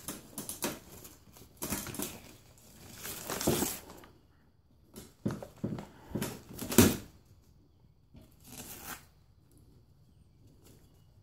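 A pet bird tearing and crumpling a paper towel into shreds: irregular bouts of soft ripping and crinkling with short pauses between them, fading out after about nine seconds.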